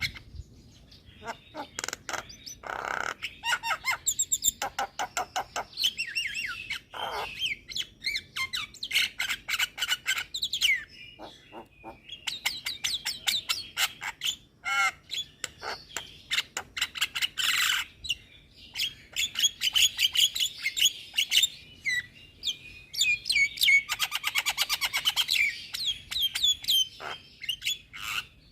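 Javan myna singing: a fast chatter of chirps, clicks and harsh squawks, with a couple of brief pauses.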